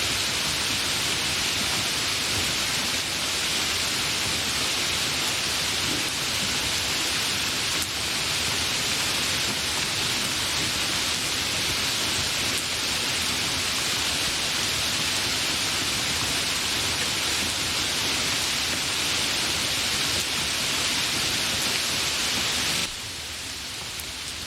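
Steady, fairly intense rain hissing, with no thunder. Near the end it drops abruptly to a quieter, thinner rain.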